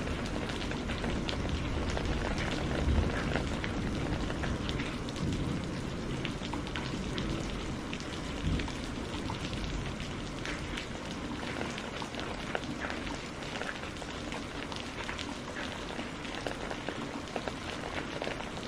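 Steady rain falling, with many fine drop ticks and splashes on a surface. A low rumble of thunder dies away over the first few seconds.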